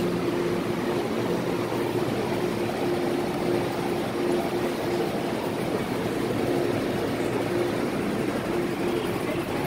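MTR M-Train electric multiple unit running at steady speed: continuous wheel-on-rail rumble with a flat, wavering hum underneath.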